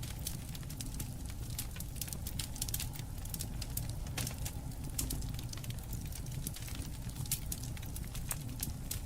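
Campfire crackling, with many quick small pops and snaps over a steady low rumble.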